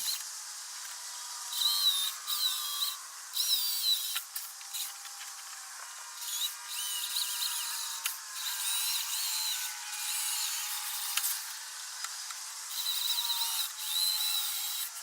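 Power drill driving screws into wood in a series of short runs, its motor whine bending in pitch as it loads and eases off.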